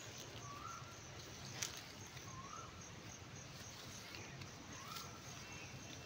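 A bird calling: one short rising-then-falling note, repeated about every two seconds, faint over a steady outdoor hiss, with a couple of faint clicks in between.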